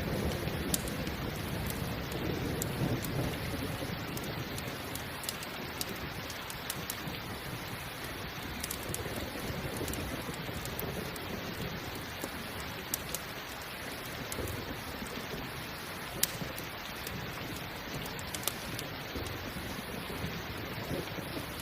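Steady rain falling, with a low rumble of thunder in the first few seconds that fades away. Scattered sharp pops of a crackling campfire.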